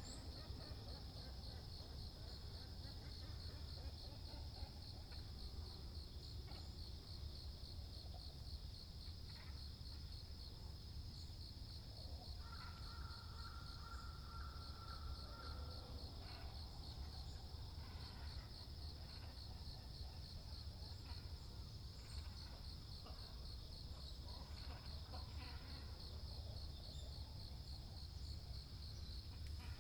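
A steady, high-pitched pulsing insect trill throughout, over a low ambient rumble, with scattered calls of water birds (cormorants and herons), thickest in the second half. A single held note lasts about three seconds near the middle.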